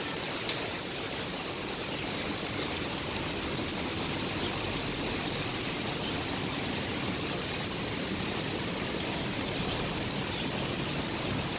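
Heavy rain falling steadily on wet paving, an even, unbroken hiss of rain and running water.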